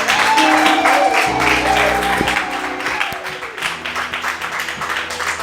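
Congregation clapping and cheering in praise over instrumental church music holding sustained notes.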